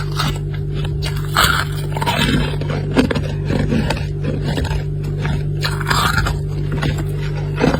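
Freezer frost being scraped and crunched in several short, rough bursts over a steady low hum.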